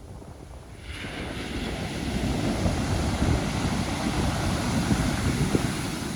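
Pacific Ocean surf: a wave breaks and its rushing hiss swells from about a second in, over a low rumble of the sea and wind buffeting the microphone.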